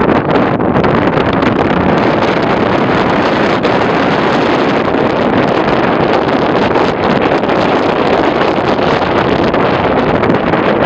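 Strong wind rushing and buffeting against the microphone, a loud steady rush with no breaks.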